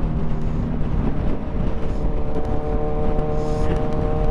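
Motorcycle engine running at a steady speed over a low rumble, its note shifting about a second in and then holding steady.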